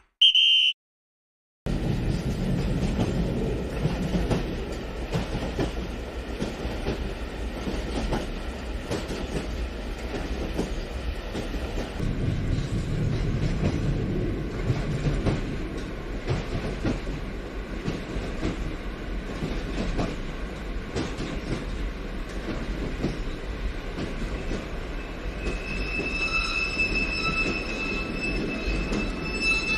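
Toy train running on plastic track: a steady rattling clatter of its motor and wheels with many small clicks over the track joints. A short high tone sounds at the very start, before a brief gap, and a few steady high tones come in near the end.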